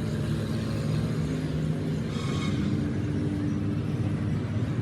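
Caterpillar bulldozer diesel engine running steadily, with a short hiss about two seconds in.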